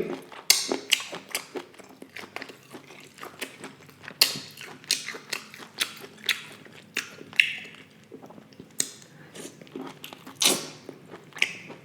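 A person chewing and biting food, with irregular mouth smacks and clicks every half second or so.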